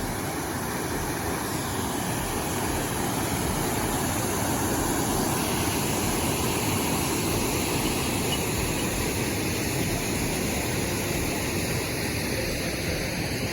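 Steady rushing of water coming off the dam, a constant noise that swells a little in the middle.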